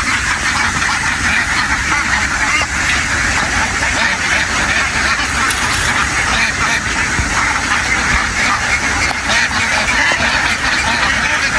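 A large flock of domestic ducks quacking all at once, a dense, unbroken chorus of overlapping calls.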